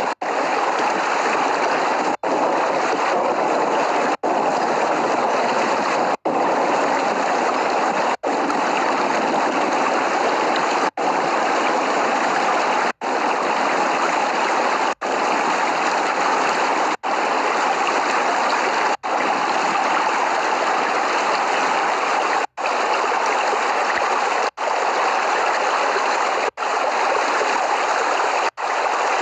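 Steady heavy rain, an even rushing hiss, broken by a brief dropout to near silence about every two seconds.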